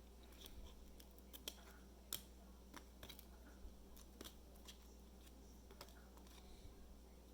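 Faint, irregular clicks and ticks of trading cards being flipped through and handled, with a steady low hum underneath.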